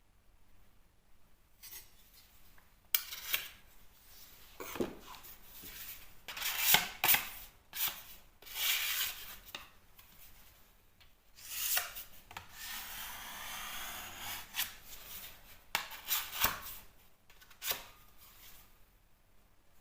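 Irregular scraping and rubbing strokes of a hand tool working over a plasterboard repair, some short and sharp, one held for about two seconds in the second half.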